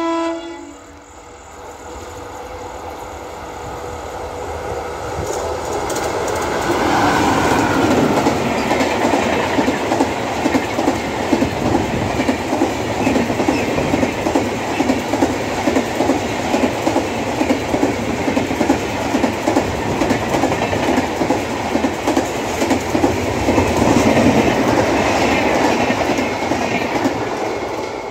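Express passenger train passing at speed. The last of the locomotive's horn dies away at the very start, then a rising rumble builds as the train approaches. From about seven seconds in, the red LHB coaches rush past with a long run of rhythmic wheel clatter over the rail joints, easing near the end as the train draws away.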